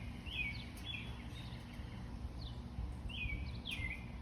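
A bird calling repeatedly with short, high chirps, several of them sliding down in pitch, over a steady low rumble.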